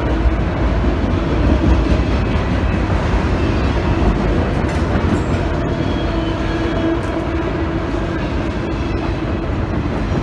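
Autorack cars of a freight train rolling past at speed over a grade crossing: a steady rumble and rattle of wheels on rail, with no break.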